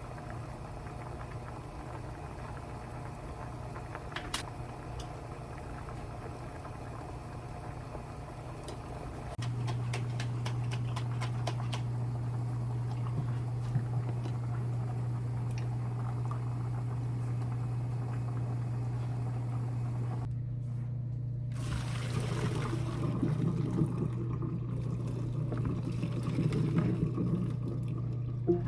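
Liquid pouring and being stirred in a pan as pasta sauce is warmed, over a steady low hum that steps louder about a third of the way in, with light clatter of utensils near the end.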